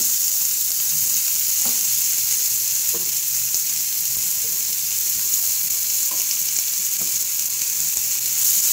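Sliced onions, whole garlic cloves and green chillies sizzling steadily in hot oil in a frying pan, stirred with a wooden spatula that knocks softly against the pan a few times.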